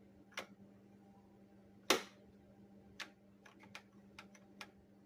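Sharp clicks and light taps from a refrigerator's door light switch being pressed in and released. The loudest comes about two seconds in, followed by a quick run of smaller clicks near four seconds, over a steady low hum.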